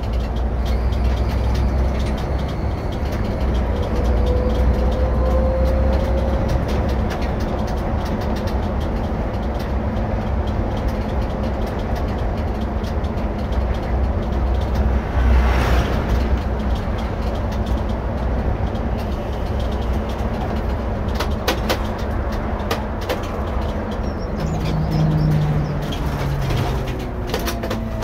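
Irisbus Récréo II coach under way, its engine and road noise running steadily as heard from the driver's seat, with a cluster of clicks over the last few seconds.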